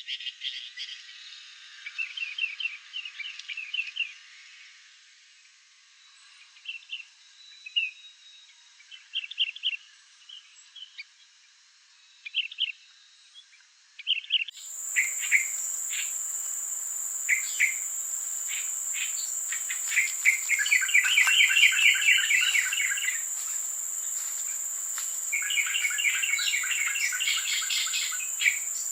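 Birds chirping and giving short quick trills. About halfway through, a steady high-pitched insect drone starts and continues under the calls.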